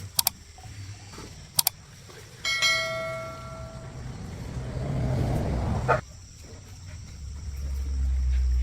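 A few sharp metallic clicks, then a metal part struck once and ringing with a clear bell-like tone that fades over a second or so. A low hum rises near the end.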